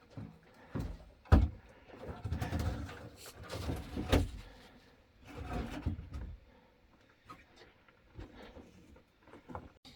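A man climbing down a mine ladder: irregular knocks and scrapes of boots and hands on the rungs. There is a sharp knock about a second and a half in, another about four seconds in, and scuffing in between.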